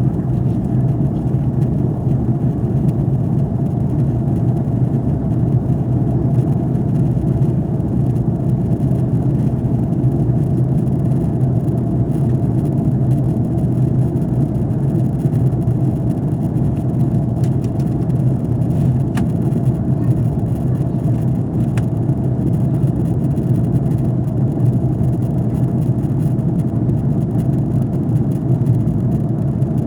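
Steady low drone of a Hawaiian Airlines Airbus A330-200's Rolls-Royce Trent 700 engines and airflow heard inside the passenger cabin, unbroken and even in level.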